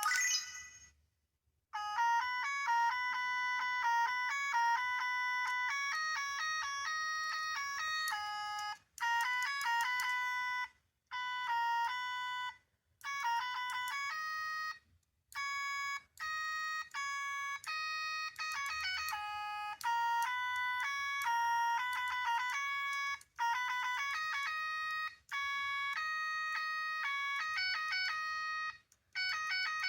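Small electronic sound toys from a capsule machine playing short, tinny electronic melodies one after another through a tiny speaker. Each jingle stops abruptly with a brief silence before the next one starts.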